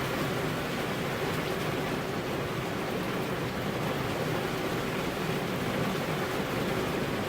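Heavy rain falling steadily, a continuous even hiss with no thunder.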